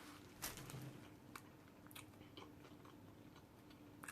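Faint chewing of a mouthful of sub sandwich: soft, scattered mouth clicks and smacks over near silence.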